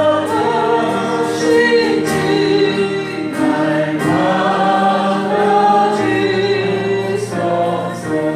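A group of voices singing a gospel hymn together, holding long notes with no break.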